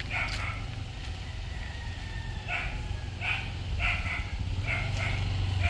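A dog barking in a series of short barks, about one every half second to a second, over a low steady hum.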